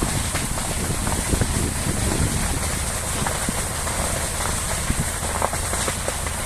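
A fire burning: a steady rushing sound with many irregular crackles and pops.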